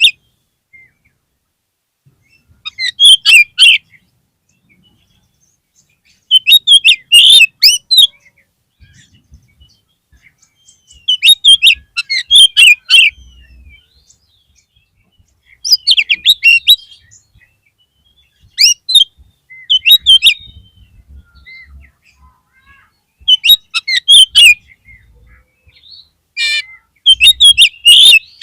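Oriental magpie-robin (kacer) singing loud, quick bursts of high chirping and whistled phrases, about seven bursts with short pauses between them. It is a provocation call played to rouse a kacer whose fighting spirit has dropped.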